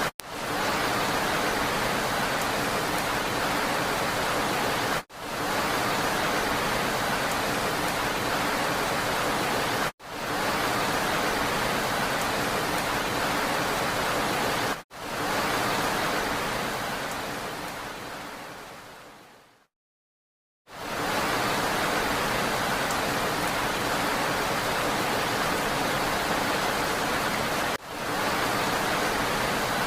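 Steady hiss of rain, cut by a brief dropout about every five seconds where the looped recording joins. Around the middle it fades out over a few seconds to a second of silence, then comes back at full level.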